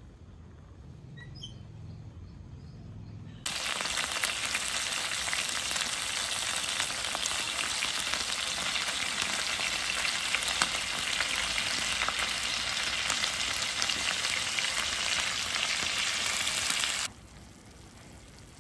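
Pork slices and broccoli frying in a hot black grill pan on a portable gas stove: a steady, loud sizzle that starts abruptly about three and a half seconds in and cuts off a little before the end.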